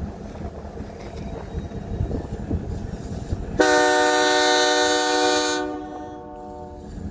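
Train horn sounding one blast of about two seconds a little past halfway through, over the low rumble and clatter of the train rolling along the track.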